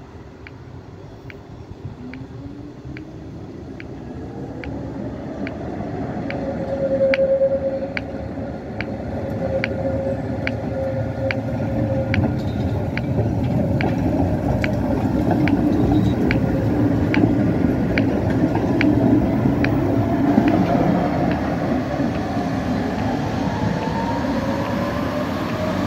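Tatra tram running closer and louder, its motors whining up in pitch and its wheels giving off a steady squeal for several seconds in the middle. A regular clicking, about one and a half a second, runs underneath.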